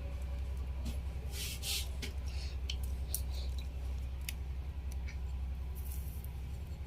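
Light clicks, snips and rustles of wire and small parts being handled at a bench, over a steady low hum.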